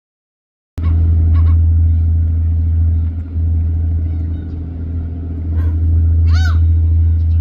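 A steady low hum from a running engine or machine starts abruptly and carries on throughout. Near the end there is one short animal call that rises and then falls in pitch.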